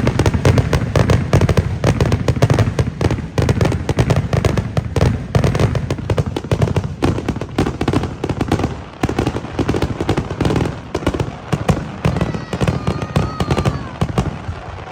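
Fireworks display in a dense barrage: rapid overlapping bangs and crackles, many a second, with a heavy low rumble, easing slightly near the end.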